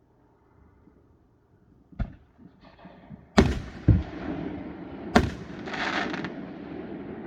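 Fireworks going off: a sharp bang about two seconds in, then three louder booms in quick succession, with bursts of crackling and a lingering rumble between them.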